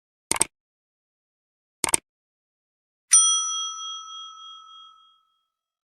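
Two short clicks about a second and a half apart, then a single bright bell ding that rings with several tones and fades out over about two seconds.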